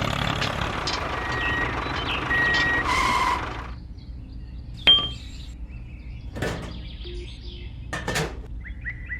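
Steady motor noise with a few short beeps cuts out after a few seconds. A sharp metallic clink with a brief ring follows, then a couple of short knocks.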